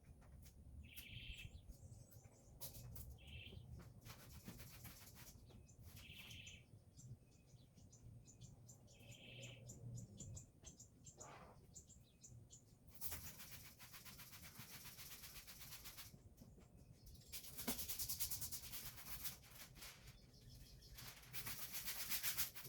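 A small bird chirps four times, a few seconds apart, in the first half. In the second half come three long hissing sounds, each a few seconds long; these are louder than the chirps.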